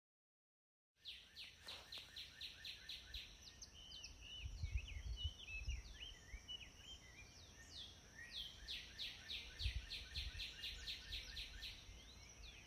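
Birdsong starting about a second in after silence: rapid runs of repeated high chirps, about six a second, with other calls between, over a steady thin high tone and a faint low rumble.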